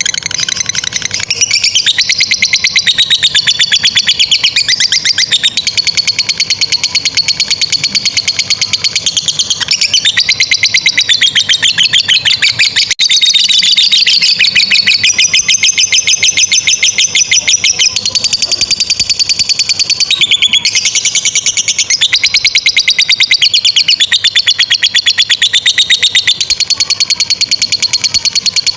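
Lovebird singing its long 'ngekek' song: a rapid, high-pitched chattering trill kept up for many seconds at a time, with only brief breaks.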